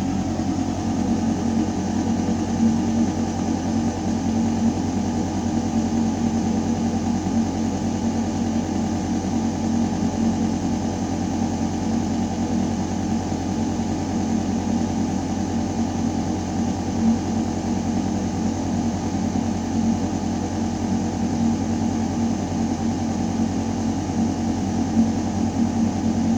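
Building ventilation system running: a steady mechanical hum of air moving through a metal duct, a constant low drone with a few steady humming tones over an even rush of air.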